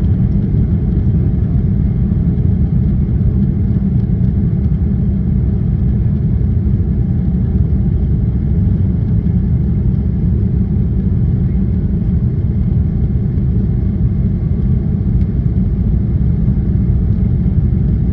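Steady low rumble of a jet airliner heard from inside the cabin, engine and airflow noise holding level without change.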